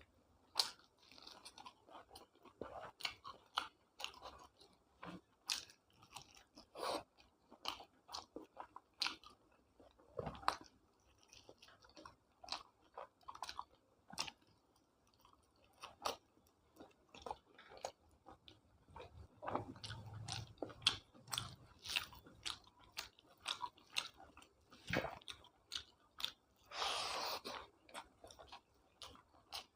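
A person chewing and biting food close to the microphone: irregular crunches and wet mouth clicks.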